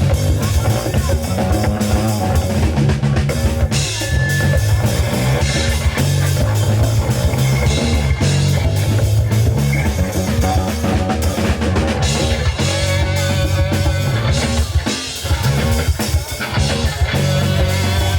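Live rock band playing: drum kit, electric guitar and bass guitar, loud and continuous, with a steady beat.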